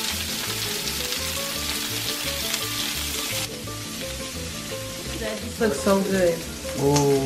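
Sliced bell peppers and onions sizzling on a hot griddle while being stirred with a wooden spoon, over background music with a steady beat. The sizzle drops off about three and a half seconds in, and a voice comes in briefly near the end.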